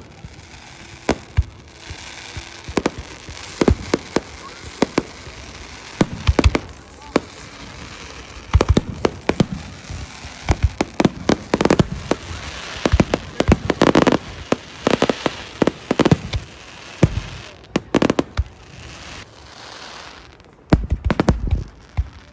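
Fireworks going off: many sharp bangs and crackles at irregular intervals, thickest in the middle, with another quick cluster of bangs near the end.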